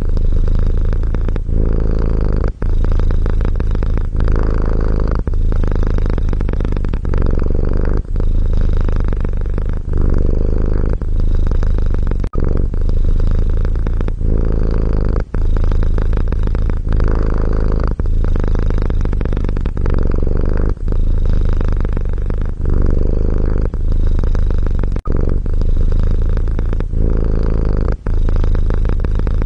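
Domestic cat purring close to the microphone: a loud, low rumble that swells and eases with each breath in and out. There is a brief break every two to three seconds.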